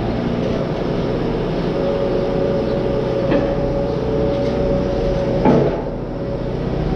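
Overhead garage door running on its electric opener motor, a steady motor hum with rumble, with a knock about three seconds in and a louder clunk about five and a half seconds in.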